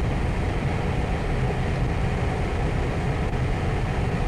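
Steady low rumble of a car driving, heard from inside the cabin: engine and tyre noise with no distinct events.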